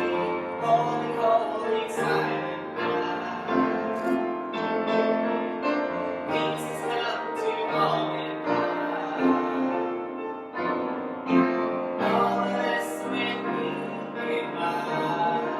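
Piano music playing throughout, with notes struck in quick succession.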